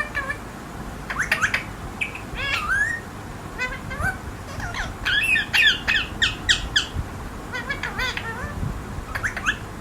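Pet parrot squawking and calling in short clusters of sharp, pitch-bending calls, on and off.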